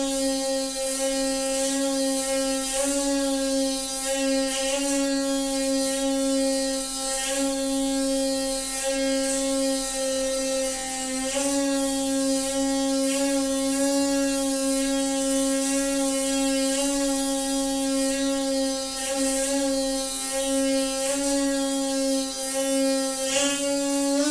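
A noisy water pipe humming: a steady, fairly loud drone held at one pitch throughout.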